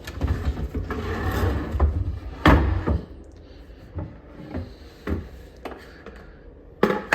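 Wooden custom cabinet doors being handled, opened and shut: rubbing and a string of knocks, the loudest about two and a half seconds in.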